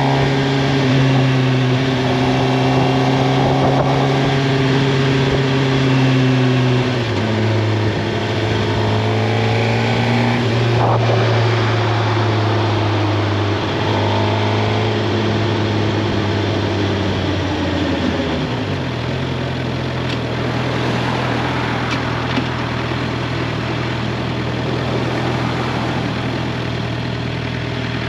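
Suzuki GSX-R 750's inline-four engine running under way at steady revs. Its pitch steps down about seven seconds in, then falls again later and holds a lower steady note.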